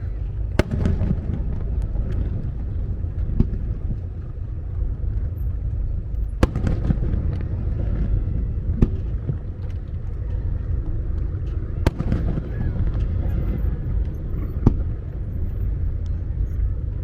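Fireworks bursting: sharp bangs every few seconds over a continuous low rumble of shell bursts.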